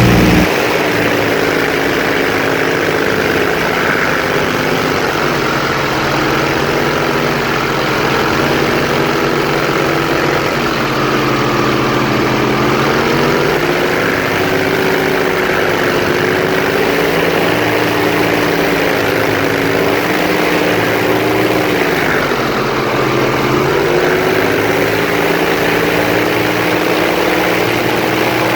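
Airboat's engine and propeller running steadily underway. The pitch wavers as the throttle changes, dipping and climbing back about 22 seconds in.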